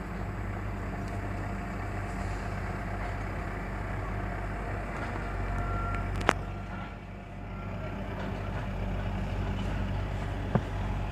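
Heavy truck's diesel engine running steadily, with a few faint beeps around the middle. Two sharp knocks cut through it, one about six seconds in and one near the end.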